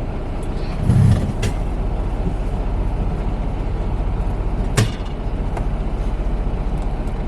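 Semi-truck's diesel engine running with a steady low rumble, heard from inside the cab. There is a low thump about a second in and a sharp click a little before the end.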